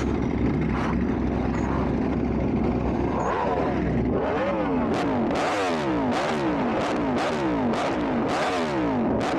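Engine running steadily, then from about four seconds in revved up and down over and over in a quick, even rhythm, with sharp clicks on each cycle.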